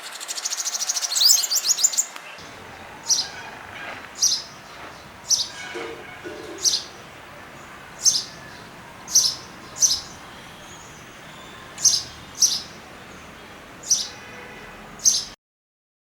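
Small songbird chirping: a fast high twittering trill for about two seconds, then single sharp chirps repeated roughly once a second. The sound cuts off suddenly near the end.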